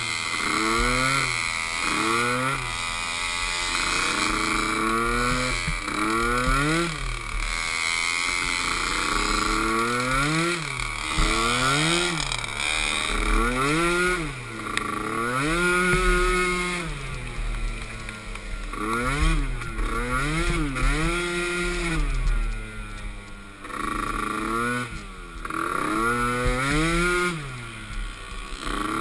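Small youth ATV engines racing, revving up and falling back in repeated throttle surges, the pitch climbing and dropping every second or two, with more than one engine overlapping at times.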